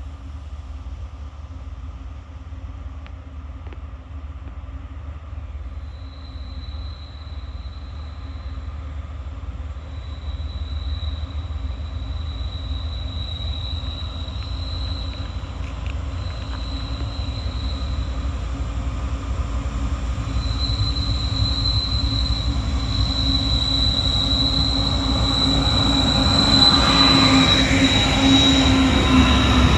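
Two diesel locomotives hauling a coal train approach, a steady low engine rumble growing louder throughout. A high squeal of steel wheels on the rails comes and goes at first, then holds steady and strengthens in the second half.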